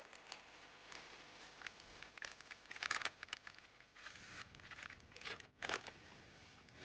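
Irregular rustling and crinkling of camping gear being handled and packed, with scattered clicks and two louder crackly bursts, one about three seconds in and one near the six-second mark.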